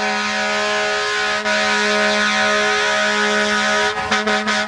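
Fire truck air horn sounding one long, steady blast at a single unwavering pitch, broken by a few brief cuts near the end.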